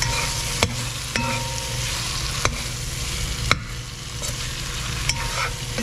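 Armored catfish pieces frying in curry in a metal pot, sizzling steadily while a metal spoon stirs them, with a few sharp knocks of the spoon against the pot.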